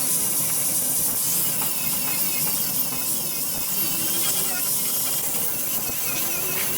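A steady high hiss with no clear starts or stops.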